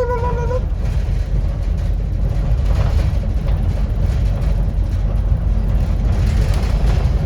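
Steady low engine and road rumble inside a 2008 Scania N230UD OmniCity double-decker bus under way, with a short rising tone right at the start.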